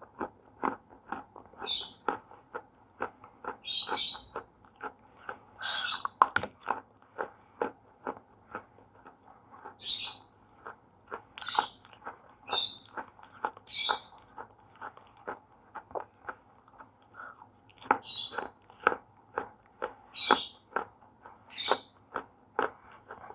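Slate pencil being bitten and chewed close to the microphone: a steady run of crisp crunches, two or three a second, with louder, sharper bites every second or two.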